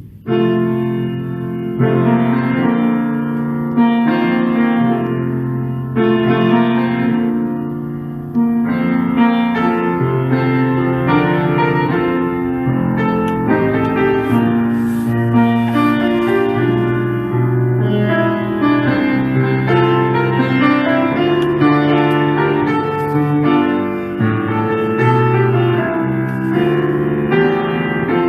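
Piano playing a slow piece in chords, with a new chord struck about every two seconds at first and moving notes filling in later.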